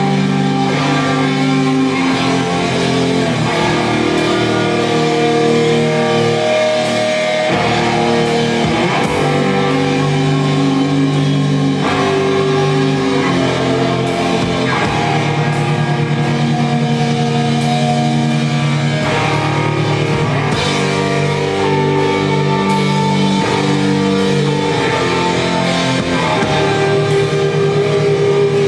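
Rock band playing live: guitars holding sustained chords that change every couple of seconds, over drums.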